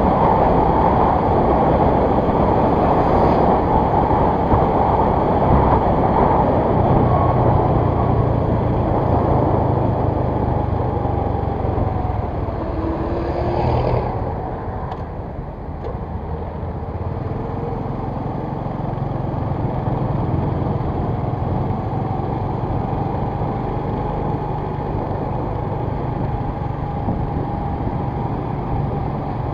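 A vehicle travelling on a road: steady rush of road and wind noise with its engine running, easing somewhat about fourteen seconds in.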